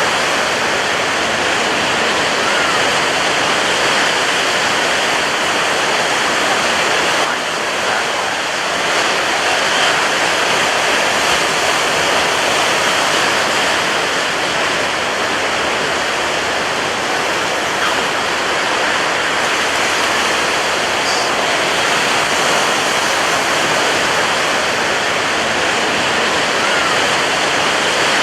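Ocean surf breaking on a beach, heard as a steady, dense rush of water noise with a brief dip about seven seconds in.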